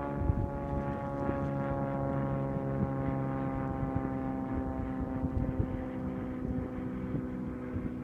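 An engine droning steadily, its pitch sinking slowly.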